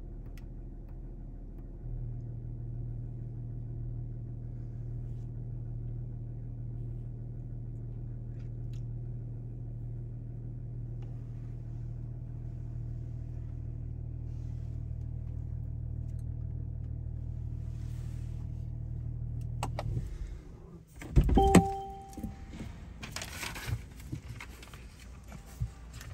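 Mercedes-AMG GT53's 3.0-litre turbocharged inline-six idling with a steady low hum that gets slightly louder about two seconds in. Near the end the hum drops away, followed by a loud clunk with a brief ringing tone.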